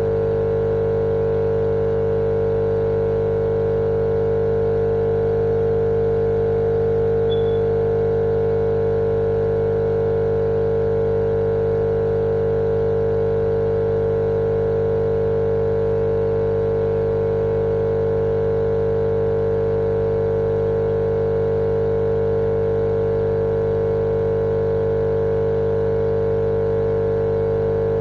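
Continuous sleep sound for babies: a steady, unchanging hum with one strong mid-pitched tone over a fainter noise bed.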